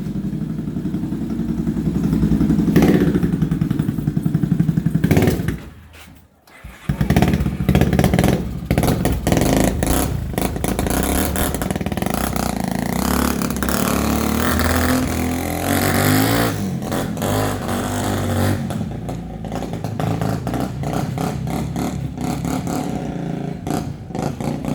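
Motocross motorcycle engine running and revving, its pitch rising and falling. About six seconds in the sound drops away almost to nothing for about a second, then the engine is back.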